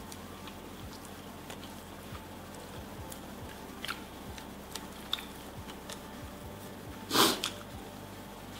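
A person eating chicken and rice with her fingers: soft chewing and small wet mouth clicks over a faint steady hum, with one louder short sniff-like burst about seven seconds in.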